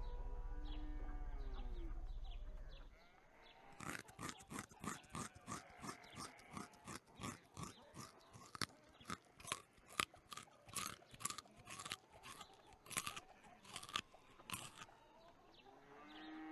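A rabbit chewing and crunching food: a quick, irregular run of crisp bites, about three a second, starting about four seconds in and stopping near the end. A low steady hum comes before the chewing starts.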